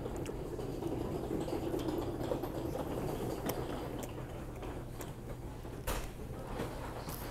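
A man biting into a chicken sandwich and chewing, over a steady low hum of room noise, with a few faint clicks and a sharper knock about six seconds in.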